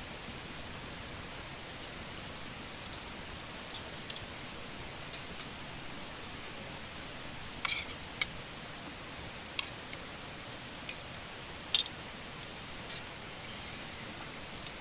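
Campfire crackling quietly under a low steady hiss, with a few scattered sharp pops in the second half.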